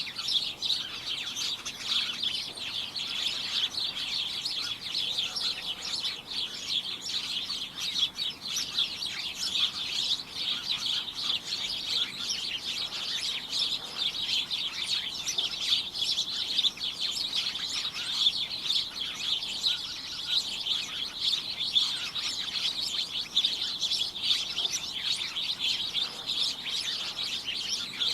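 A group of small birds chirping continuously, many short high chirps overlapping into a dense, cacophonous chatter with no pauses.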